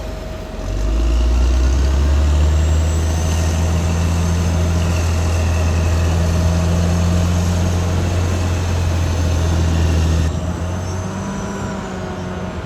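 Caterpillar D6R XL bulldozer's diesel engine running steadily. It dips briefly about half a second in and drops in level for the last couple of seconds.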